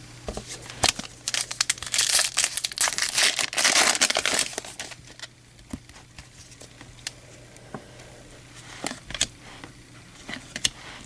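A foil trading-card pack wrapper being torn open and crinkled: a dense crackling rustle from about a second in to about five seconds in, followed by scattered light clicks and taps of cards being handled.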